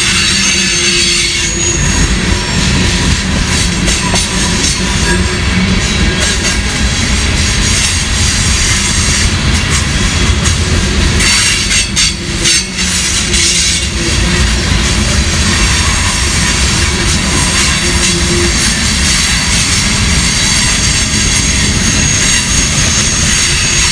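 Covered hopper cars of a BNSF grain train rolling past close by: a loud, steady rumble of steel wheels on rail, with thin, high wheel squeal riding over it. The sound dips briefly about halfway through.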